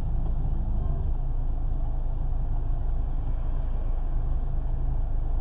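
A car's engine rumbling steadily at low speed or idle, heard from inside the cabin.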